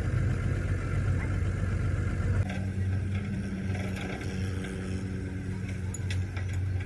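An engine running steadily with a low hum, its sound changing abruptly about two and a half seconds in, with a few light clicks.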